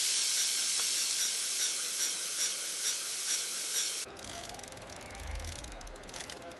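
Garlic sizzling in butter in a frying pan, a steady hiss that cuts off abruptly about four seconds in, leaving faint noise and a soft low thud.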